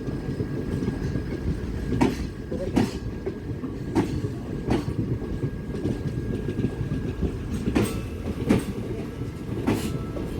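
Passenger train running on the line: a steady wheel-and-rail rumble, with pairs of sharp clicks every couple of seconds as wheels pass over rail joints.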